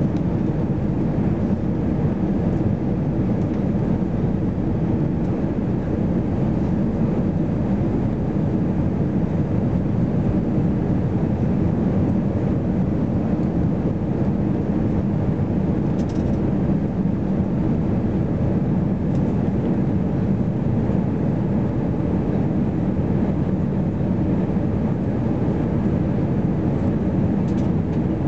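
Steady cabin noise inside an Airbus A320-214 in flight: a constant low rumble of its CFM56 engines and the airflow over the fuselage, with no change in level.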